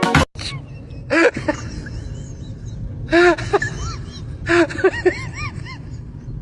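A pet animal giving short high calls that each rise and fall in pitch: one about a second in, another about three seconds in, then a quick cluster near the end, over a low background rumble.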